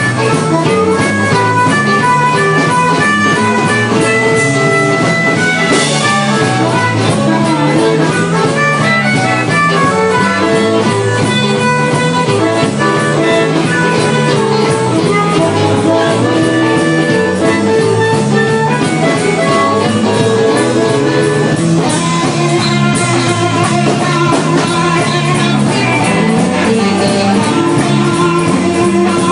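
A blues band playing, with electric guitar lines over bass and drums.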